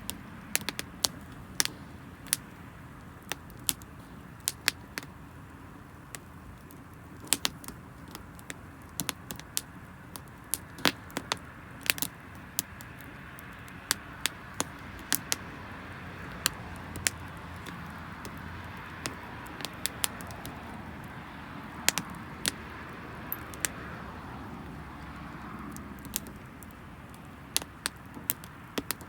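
Wood campfire crackling, with sharp, irregular pops several times a second from damp firewood burning, over a steady background hiss.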